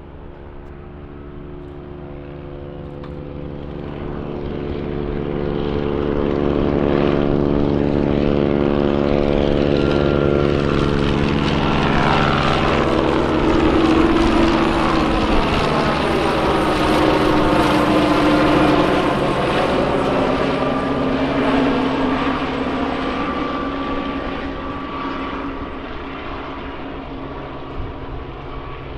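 Propeller-driven aircraft taking off and passing by: its engine and propeller drone grows louder over several seconds, drops in pitch as it passes about halfway through, then slowly fades.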